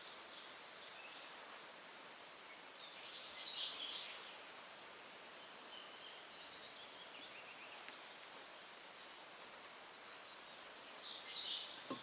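Songbirds singing in woodland: two short bursts of song, about three seconds in and near the end, with fainter chirps around six seconds, over a steady outdoor hiss.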